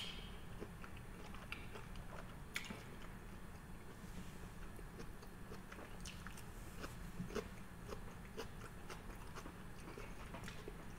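A person chewing sushi: soft, wet mouth clicks of chewing, with a sharp click right at the start and another about two and a half seconds in.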